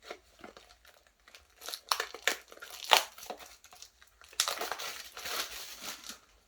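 Foil trading-card booster pack packaging being handled and torn open: sharp plastic crackles, then a longer crinkling rustle in the second half.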